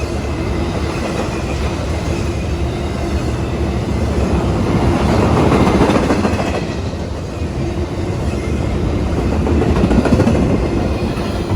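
Freight cars of a Union Pacific intermodal train rolling past, their steel wheels rumbling and clattering on the rails, with the sound swelling twice.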